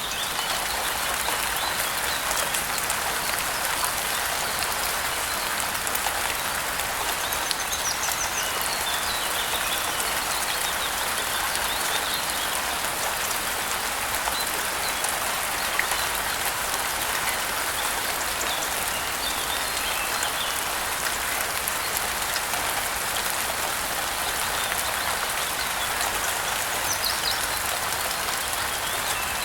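Steady rain falling, an even hiss of many drops, with a few faint bird chirps now and then.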